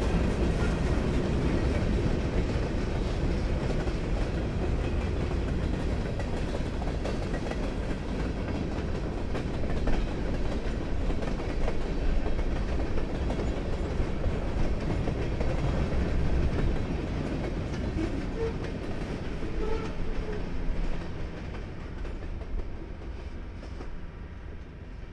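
Freight cars of a long mixed train rolling past close by, hoppers, boxcars and tank cars clattering steadily on the rails. The sound fades over the last few seconds as the end of the train goes by.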